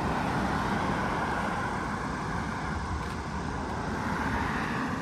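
Steady road traffic noise from passing cars: a broad tyre hiss with a low rumble underneath.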